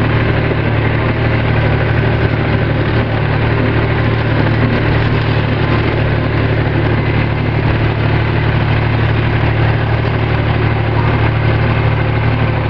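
Tractor engine running steadily, a strong low hum that holds even without revving up or down.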